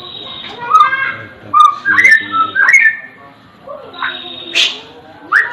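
Birds singing and calling: a run of short whistled notes sliding up and down in pitch, with a high thin steady note at times and a loud sharp call near the end.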